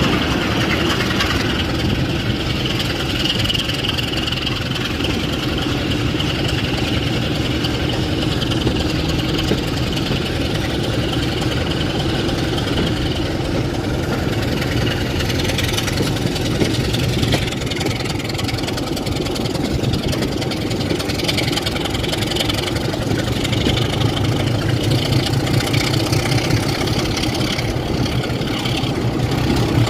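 Diesel locomotive engine idling steadily, its low throb growing louder over the last few seconds.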